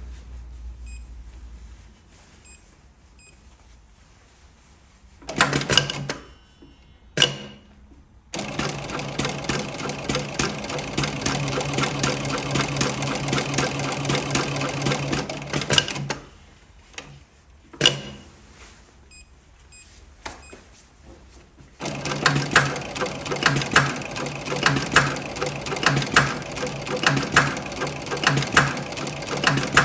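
Electronic double-needle post-bed pattern sewing machine stitching in two long runs of fast, even needle strokes. A pause with a single sharp click separates the runs, and a couple of short stitching bursts come before the first.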